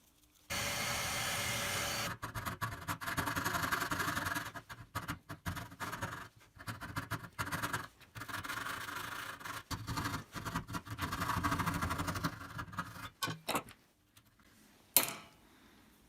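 Hand tools working a wooden dowel held in a jig, shaping small pistons: a steady scraping from about half a second in, then uneven runs of rasping, sawing-like strokes with short breaks, and one sharp click near the end.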